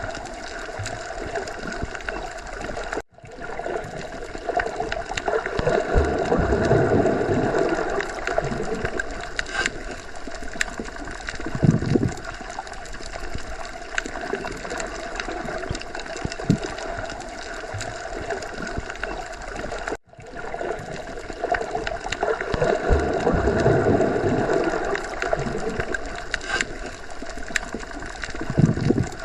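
Underwater ocean ambience: a continuous muffled watery rush and gurgle with scattered bubble pops, swelling louder twice. It drops out for an instant twice, and the same stretch repeats about every 17 seconds, a looped recording.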